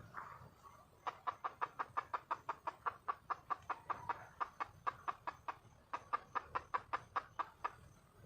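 Red junglefowl hen giving a fast run of short clucking notes, about five a second, with a brief pause before a second run. This is the wild hen's call for a mate.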